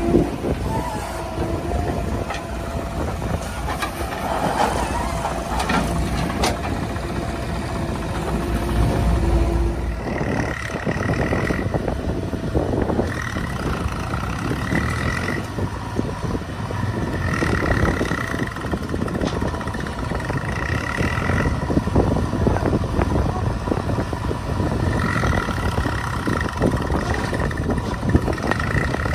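Heavy diesel machinery engine running steadily. About ten seconds in the sound changes, and a higher two-note tone starts coming and going every second or two.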